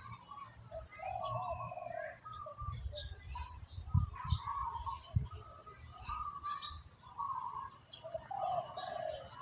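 Birds calling repeatedly in short, wavering notes, with a few low knocks about halfway through.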